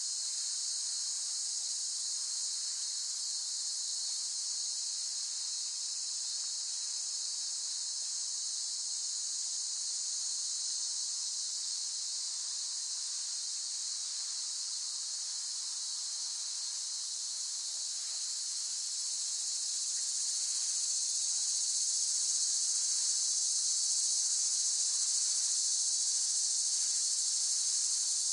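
Cicadas buzzing in a steady, high-pitched chorus that grows a little louder about two-thirds of the way through.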